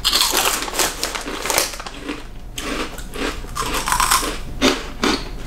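Close-up crunching and chewing of a crisp Japanese snack, irregular bites and crunches all the way through.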